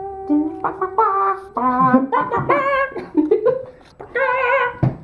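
People singing and humming a wordless mock-dramatic tune, with a held note at the start and a wavering vibrato note near the end. A short knock comes just before the end.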